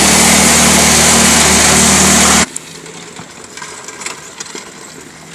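Small engine running loudly and steadily, then cut off abruptly about two and a half seconds in; afterwards only faint background with a few light clicks.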